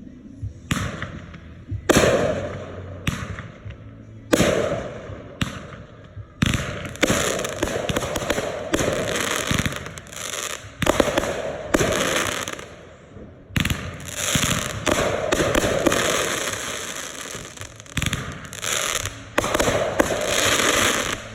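Red Apple consumer fireworks going off: a few separate sharp bangs, then a dense, nearly continuous run of explosions from about six seconds in, broken by a brief lull just past the middle.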